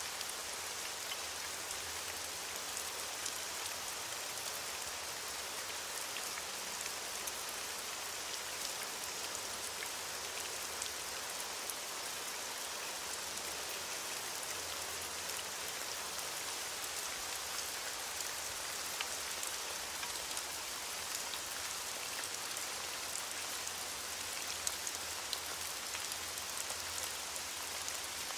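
Steady rainfall: an even hiss with many scattered drop ticks on top.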